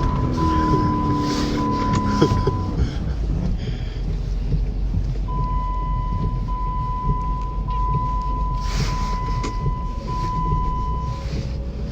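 2009 Jeep Commander's 5.7 Hemi V8 engine and drivetrain rumbling in the cabin while crawling through snow in low range, with the engine note dropping over the first two seconds. A steady high electronic tone sounds in roughly one-second pieces near the start and again through most of the second half.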